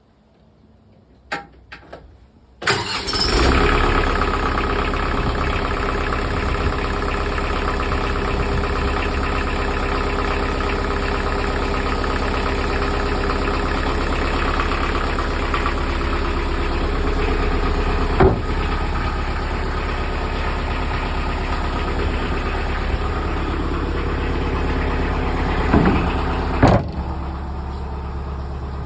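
A boat's 52 horsepower Canaline inboard diesel engine starting after a few clicks about three seconds in, then idling steadily. There is a sharp knock near the end.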